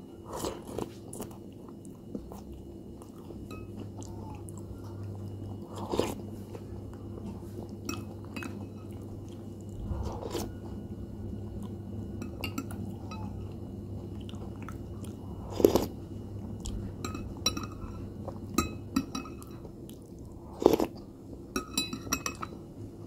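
Cornflakes in milk being chewed and crunched, with a metal spoon clinking against a glass bowl now and then and a quick run of clinks near the end.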